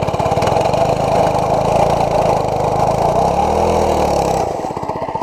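80cc mini bike's small single-cylinder engine running under throttle, revving up and falling back about three to four seconds in, then dropping to a lower, quieter note near the end.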